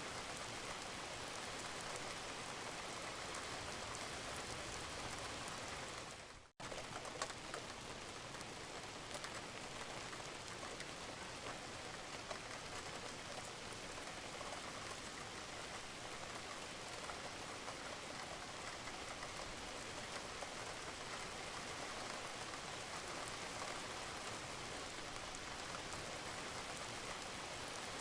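Steady rain falling on a roof, with dripping water. The sound briefly cuts out about six and a half seconds in, then resumes.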